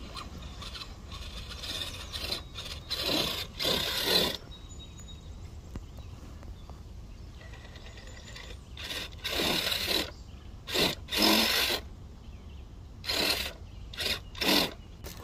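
Gmade G20SF 1/10-scale RC crawler's electric motor and gears whirring in a series of short bursts as it is throttled up a tree stump, its tyres scrabbling on the wood.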